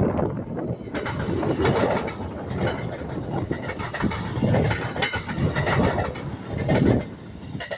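Passenger train passing close by, its wheels clattering over the rail joints in a steady run of clicks over the running noise, which swells up about a second in.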